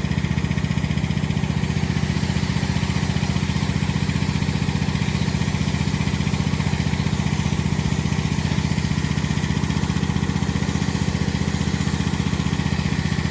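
Gas-engine pressure washer running at a steady speed without a break.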